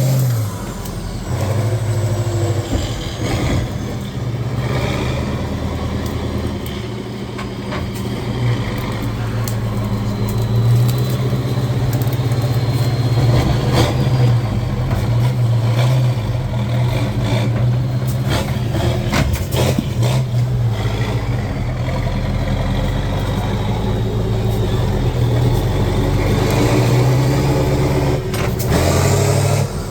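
Heavy off-road trial truck's engine working under load, its pitch rising and falling as it is revved, with scattered knocks and clanks.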